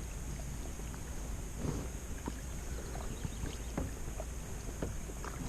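Steady low rumble of motorboat traffic out on the lake, with light scattered clicks and taps over it.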